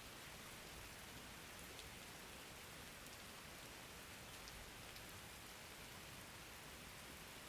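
Faint, steady rain falling, a constant hiss with scattered small drop ticks.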